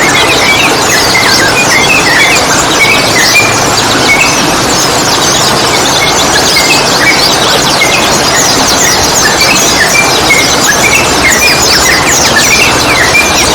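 Dense chorus of small songbirds chirping and calling at once: many rapid overlapping chirps and short whistled notes, over a steady loud hiss.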